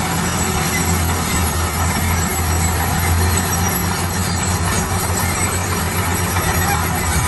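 Heavy road-construction machinery running steadily: a low engine drone under a continuous loud, noisy rumble.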